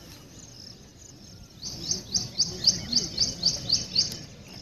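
A bird calling a quick run of about ten sharp, high chirps, each dropping in pitch, about four a second, starting about a second and a half in.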